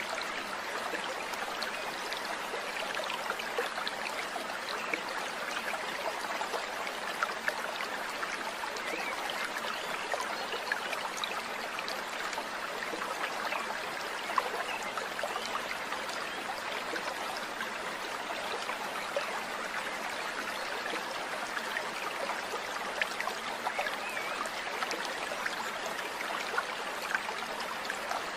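Steady running water: a stream trickling and babbling, an even, unbroken sound.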